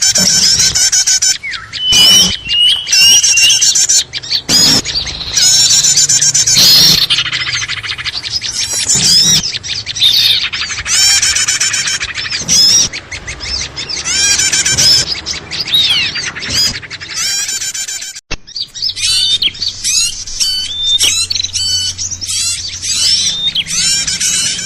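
A dense, busy chorus of many small songbirds chirping, trilling and squawking over one another: a bird-lure (pikat) recording meant to draw small birds in. The sound breaks off briefly about two-thirds of the way through, then the chirping picks up again.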